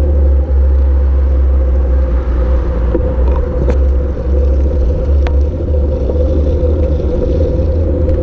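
Steady low wind rumble buffeting the microphone while riding a bicycle, with a constant hum and rolling noise underneath and a few sharp clicks about three to five seconds in.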